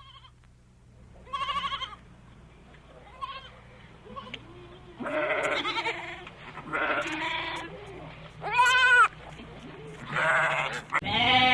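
Farm animals bleating: a run of separate wavering calls, some overlapping, with the loudest about eight and a half seconds in.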